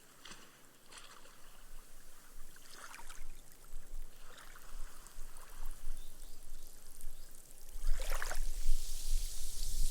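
Small sea waves lapping onto a sand beach, starting with soft trickles and fizzes. About eight seconds in, a louder wash comes up the sand, and its foam hisses as it soaks into the sand.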